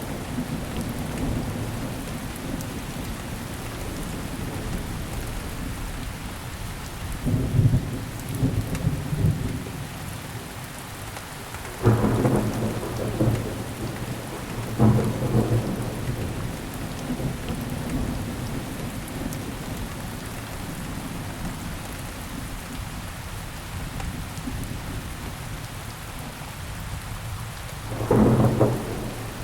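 Steady rainfall with thunder. There is a low rumble about a third of the way through, then sharp claps that roll off, a little before and a little after the middle and again near the end.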